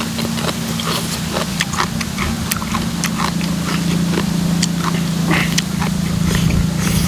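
Close-miked chewing and lip-smacking of som tam (spicy papaya salad) with pickled seafood: wet clicks, smacks and crunches coming irregularly several times a second. A steady low hum runs underneath.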